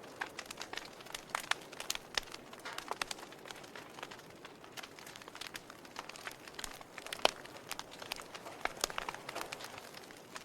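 Wood logs burning in a fireplace, crackling with irregular sharp pops over a soft hiss of flame; the loudest pop comes about seven seconds in.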